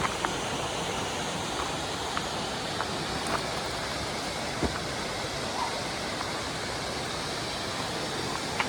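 Rushing water: a steady, even roar of falling or fast-flowing water, with a few brief faint ticks through it.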